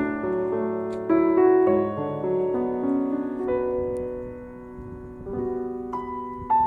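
Slow background piano music, with single notes struck and held so they overlap.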